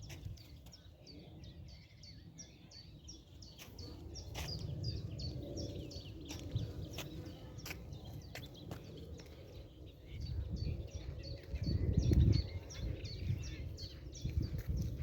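A small bird giving short, high chirps over and over, about three or four a second, over a low rumbling noise that swells and is loudest near the end.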